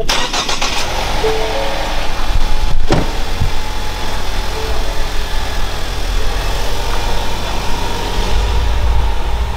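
Vehicle engine running steadily, with a single knock about three seconds in.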